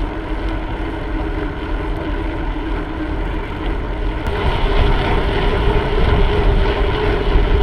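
Wind rushing over the microphone of a camera carried on a moving bicycle, with a steady droning tone coming in about four seconds in.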